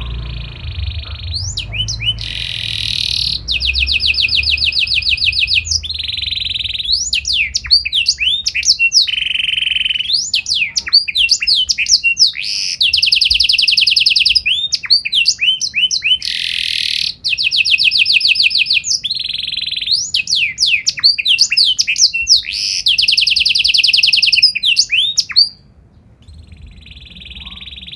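Domestic canary singing a long, loud song of fast rolling trills, quick sweeping notes and held tones, breaking off about 25 seconds in.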